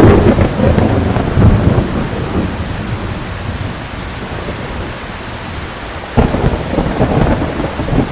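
Thunderstorm with heavy rain falling steadily. A loud rumble of thunder at the start dies away over about two seconds, and another peal rolls in about six seconds in.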